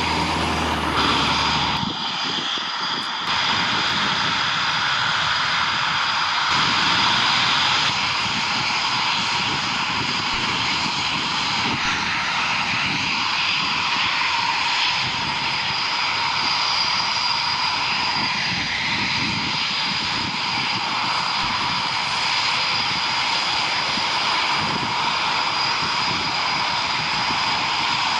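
Military jet aircraft engines running loud and steady, a dense roar with a high turbine whine held on one pitch.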